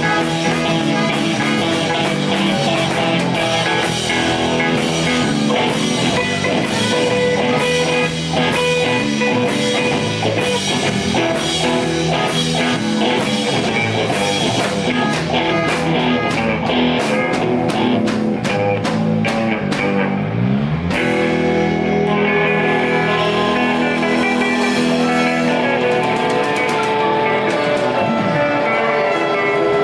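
Live blues-rock band playing an instrumental stretch: electric guitar over a steady drum kit beat. About two-thirds of the way through, a note slides in pitch and the playing changes.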